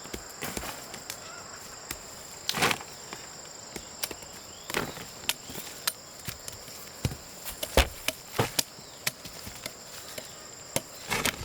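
Irregular chopping strikes of a hand tool cutting into soil or plants, about a dozen spaced unevenly, the loudest about 2.5 and 8 seconds in. A steady high-pitched drone of crickets or other insects runs behind them.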